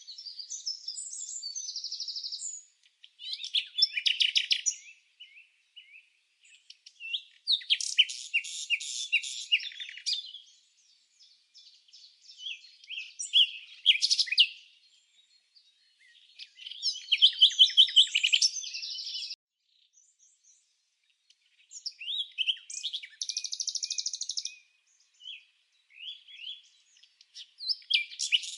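A songbird singing in phrases of rapid, high chirps and trills, each a couple of seconds long, with short pauses between them.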